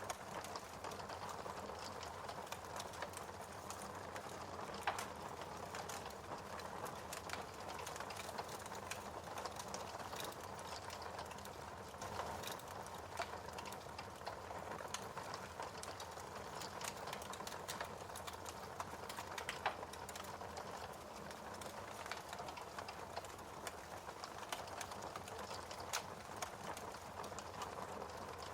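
Wood fire in a fireplace crackling: a steady hiss with frequent small sharp pops, a louder pop about five seconds in and another near twenty seconds.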